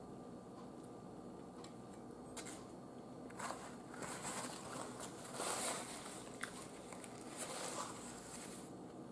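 A person chewing a mouthful of soft yeast roll close to the microphone: wet, squishy mouth sounds with small clicks. They are sparse at first and busiest from about three seconds in until near the end.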